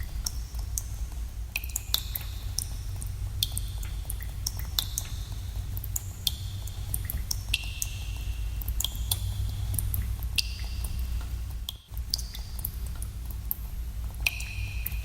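Water drops falling into pools in a cave, plinking irregularly several times a second, each drop ringing briefly, over a steady low rumble. The rumble briefly drops out about twelve seconds in.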